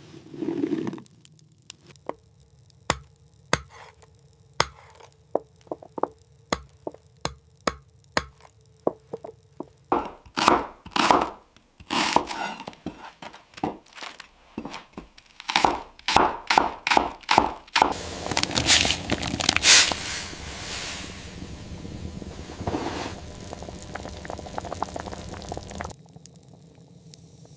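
Chopping with a knife on a board: evenly spaced knocks at about one and a half a second, then faster, louder chopping with scraping. This is followed by a steady hiss of about eight seconds that cuts off sharply.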